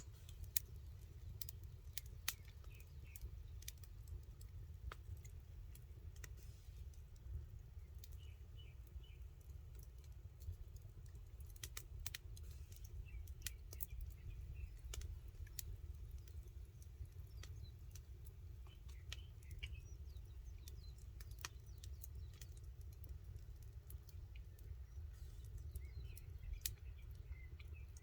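Campfire crackling: wood popping and snapping in sharp, irregular clicks over a steady low rumble.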